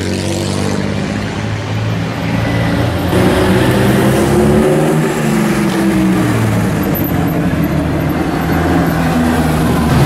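Engines of vintage cars running as they drive past on a street. About three seconds in a louder car comes by, its engine note rising and then falling as it passes.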